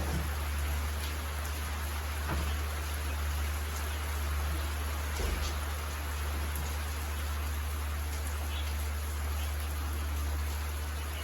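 Steady rain falling, an even hiss with a few separate drops ticking, over a constant low rumble.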